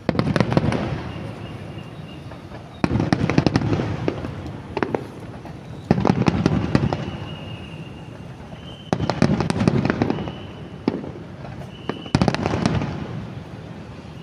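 A fireworks display with aerial shells going off in five volleys about three seconds apart. Each volley is a sudden blast followed by dense crackling that dies away over a second or so.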